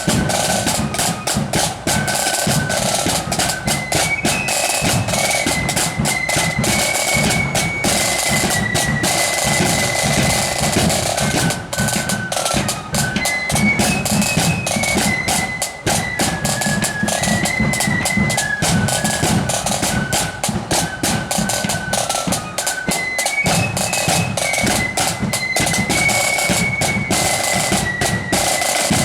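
Pipe band playing a tune: a Highland bagpipe melody stepping from note to note over steady drones, with rapid snare drumming and bass drum beats underneath.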